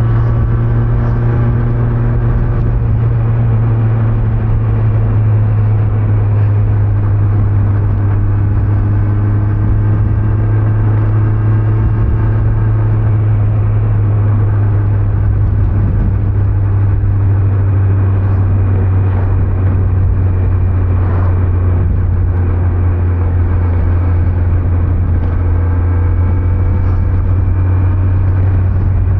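Kawasaki Z900's inline-four engine running at a steady pitch as the motorcycle cruises, heard through its stock exhaust.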